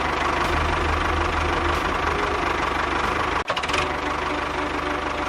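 Engine running steadily with a fast, even knock, broken by a brief cut about three and a half seconds in.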